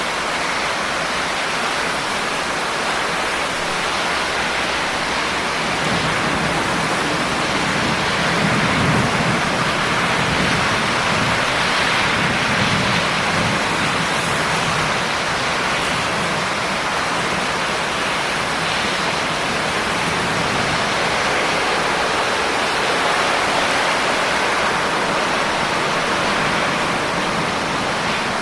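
Steady heavy rain, an even hiss of many drops. A low rumble swells and fades between about six and fourteen seconds in.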